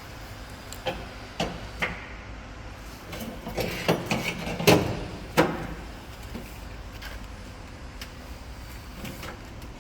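Scattered knocks and clanks from repair work on a truck's cargo box: a few separate knocks, then a busy burst of clatter around the middle, the loudest near halfway.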